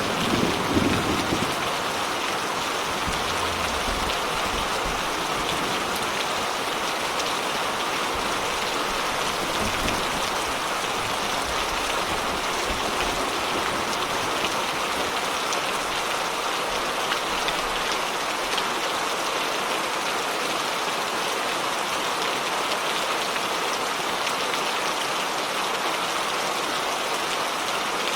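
Steady rain falling, an even hiss, with the tail of a low thunder rumble dying away in the first second or two.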